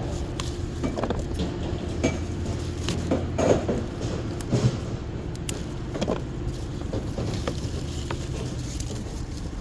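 A motor running steadily with a low hum, with scattered knocks and clicks over it.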